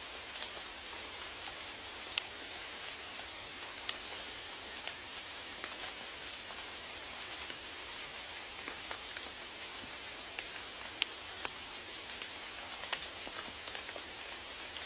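Steady rain falling, a constant hiss with scattered individual drops ticking sharply on a hard surface.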